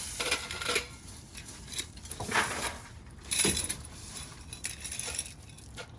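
Gravel clattering and scraping as it is scooped into a bucket, in several separate, irregular scoops.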